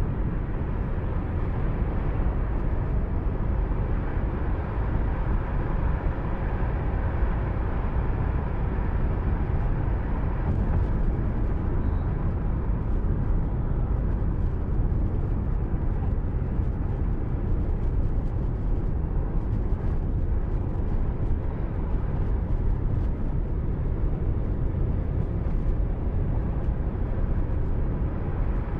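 Steady road and engine noise of a moving car as picked up by a dashcam microphone inside the cabin, a low rumble with no change in pace.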